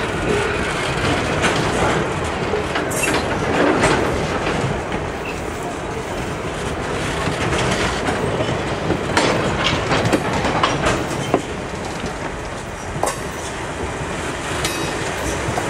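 Passenger coaches rolling past close by over a short timber bridge: a steady rumble of wheels on rail, broken by irregular clicks and clanks as the wheels cross rail joints.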